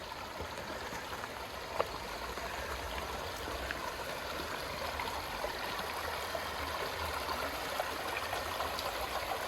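A canyon creek flowing, a steady rushing of water, with one short knock about two seconds in.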